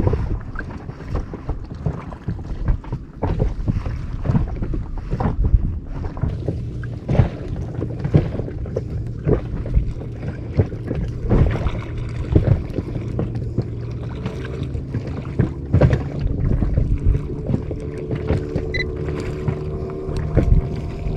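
Wind buffeting the microphone and water slapping against an inflatable boat, in irregular knocks and gusts over a low steady drone. A steady engine tone joins in near the end.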